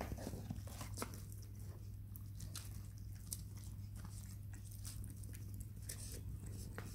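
Someone chewing food, with irregular small clicks and crackles as pieces of omelette are picked apart in a paper takeout box. A steady low hum runs underneath.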